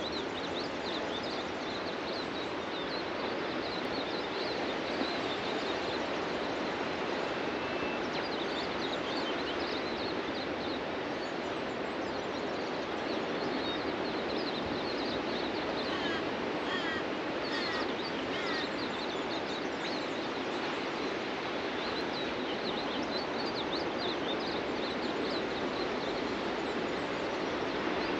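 Ocean surf washing steadily onto a beach, with small birds chirping and twittering over it throughout; a few clearer bird calls stand out about two-thirds of the way through.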